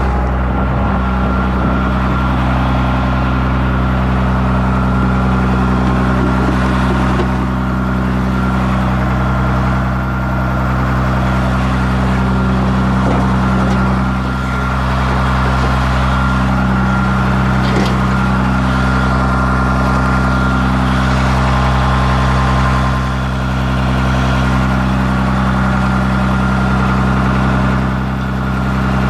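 An engine idling steadily at an even speed, its pitch unchanging.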